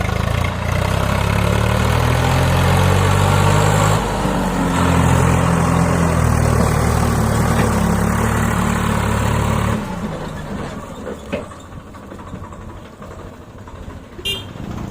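Swaraj 744 FE tractor's diesel engine running hard under load, its pitch shifting. About ten seconds in the engine sound drops off abruptly to a much quieter level, and a short high squeak comes near the end.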